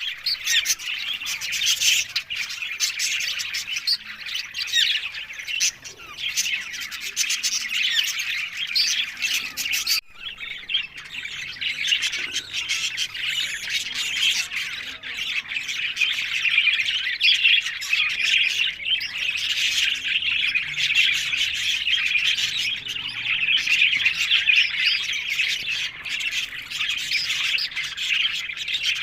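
Parakeets squawking and chirping in dense, continuous chatter, with a brief break about ten seconds in.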